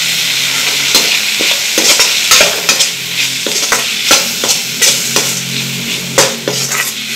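Chopped onion and tomato sizzling in hot oil in a metal kadai while a metal slotted spatula stirs them, scraping against the pan. The sizzle is steady; the spatula strokes come irregularly from about a second in.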